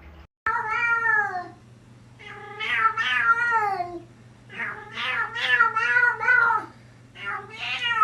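A domestic cat meowing insistently: four long, drawn-out calls that bend and waver in pitch, the first falling away at its end.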